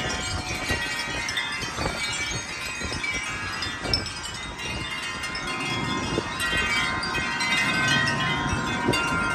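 Wind chimes ringing and clanging without pause, many tones overlapping, shaken by strong gusting wind. Wind buffets the microphone with a low rumble underneath.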